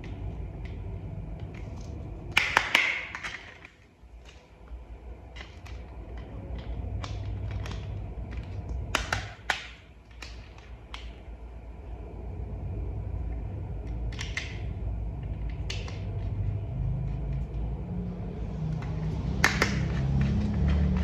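Small plastic toy vehicle parts being handled and fitted together: scattered clicks and taps, a few louder clusters of knocks, over a low steady hum.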